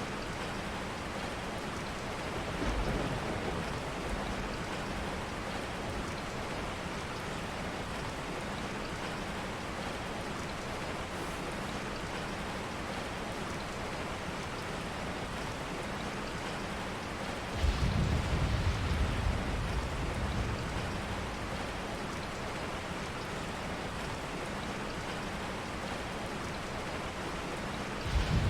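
Steady rain falling, an even hiss of drops. A brief low rumble comes about three seconds in, and a louder one about eighteen seconds in lasts some three seconds.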